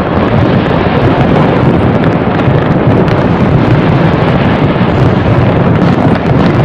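Aerial fireworks display in a dense barrage: many overlapping bursts merge into a loud, continuous rumble, with no single bang standing out.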